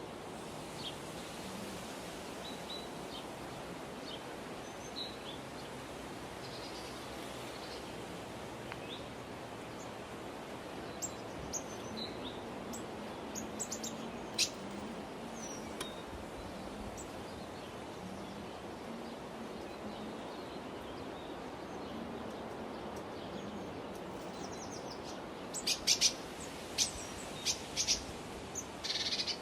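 Birds chirping now and then over a steady outdoor background hiss, with a quick run of short, sharp high calls near the end.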